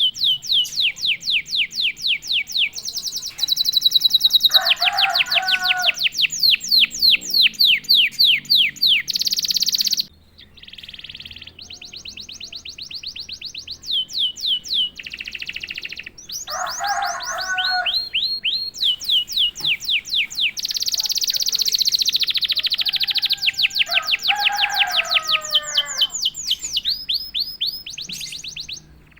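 Domestic canary singing: long, fast trills of rapidly repeated sweeping high notes, broken by lower chattering phrases, with a short lull about ten seconds in.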